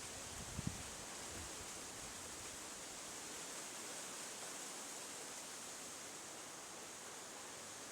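Steady outdoor hiss, with a couple of brief low thumps in the first second.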